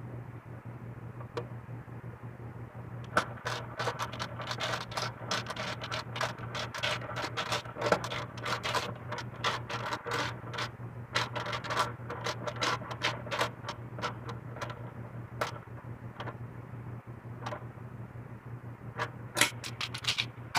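Screws being driven back into the plastic housing of a ProChrono Pal chronograph with a screwdriver: a rapid run of small clicks and ticks from about three seconds in, thinning out after about fifteen seconds, with a few more near the end. A steady low hum runs underneath.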